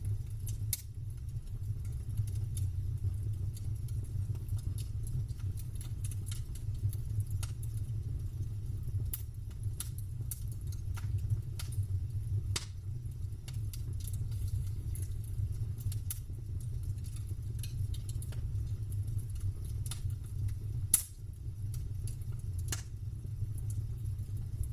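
Campfire crackling: irregular sharp pops and snaps of burning wood over a steady low rumble, with one louder pop near the end.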